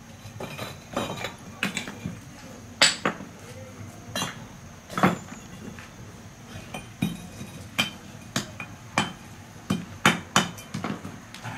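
Irregular sharp knocks and clinks of hard objects being struck and handled, about fifteen spaced unevenly, a few ringing briefly, as the traditional wood-fired kiln is opened after firing.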